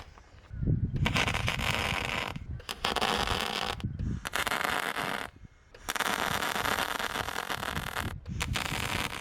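Welding arc crackling and sizzling in a run of short welds, five bursts of one to two seconds each that start and stop abruptly with brief pauses between them.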